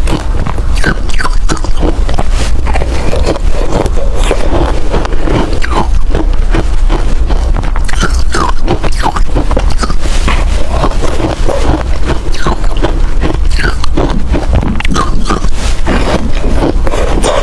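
Ice being bitten and chewed right at a close microphone: a steady run of sharp, crunching cracks, many each second, with no pause.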